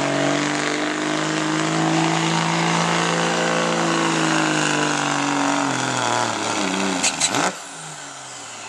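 Diesel pickup truck engine running hard at a steady pitch while pulling a weight sled, then falling in pitch about six seconds in and cutting off with a few sharp crackles as the pull ends.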